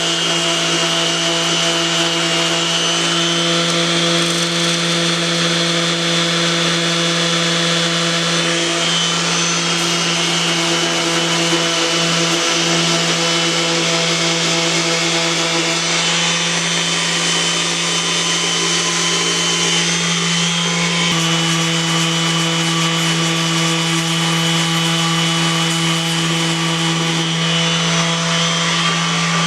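Electric power sander running steadily, its motor hum over the gritty rasp of abrasive on a 3D-printed plastic part, sanding down a hardened plastic-weld adhesive seam. The hum drops slightly in pitch about two-thirds of the way through, as if under heavier load.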